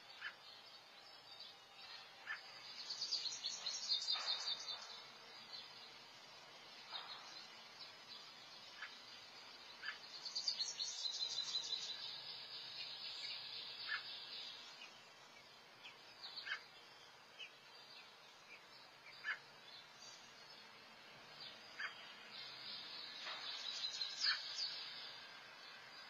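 Birds chirping: three bursts of rapid, high-pitched twittering, with a single short chirp repeated every two seconds or so in between.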